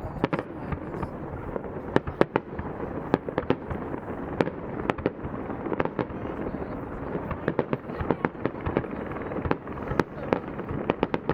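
Fireworks display: shells bursting in quick, irregular sharp bangs and cracks, some in clusters, over a steady background haze.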